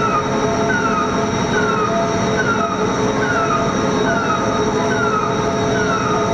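Car-body lifting machinery running with a steady hum and whine, over which a short falling electronic warning chirp repeats a little more than once a second, the alert sounded while a rail car body is being lifted.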